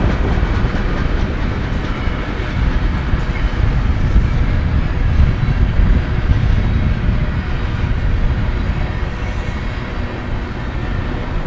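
Freight cars of a BNSF manifest train rolling past: a loud, steady low rumble of steel wheels on rail, with a few faint sharp clicks.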